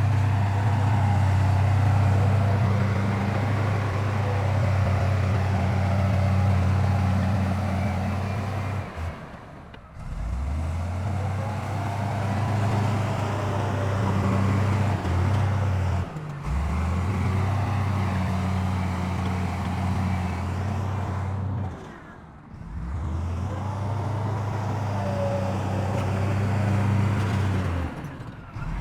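Heavy diesel engines of dump trucks and a bulldozer at work, running with a steady low drone. The sound breaks off abruptly about every six seconds and picks up again.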